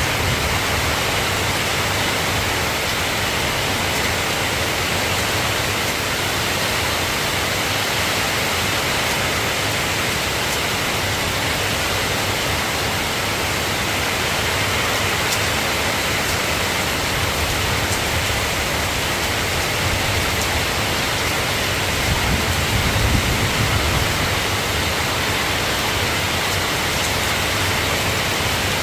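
Steady rain falling, an even hiss. A low rumble swells briefly about two-thirds of the way through.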